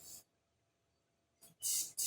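Aerosol brake cleaner hissing in short spray bursts as a carburetor part is flushed out: a brief spray at the start, then a short one and a longer, louder one near the end.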